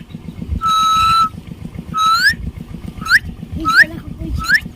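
A series of whistles: one long level note, then four short whistles that each sweep upward, over a low traffic rumble.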